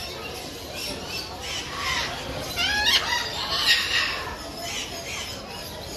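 Burrowing parrots (Patagonian conures) squawking, with harsh overlapping calls that sweep quickly in pitch. The calls come loudest in a cluster between about two and four seconds in.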